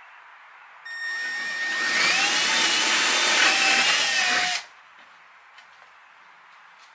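Electric drill starting up with a steady whine, then boring a hole under load for a little under three seconds before stopping abruptly.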